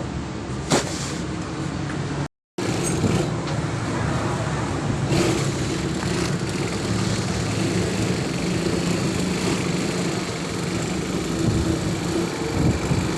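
A motor vehicle engine running steadily under general street noise, with a sharp click just under a second in. The sound drops out completely for a moment a little over two seconds in.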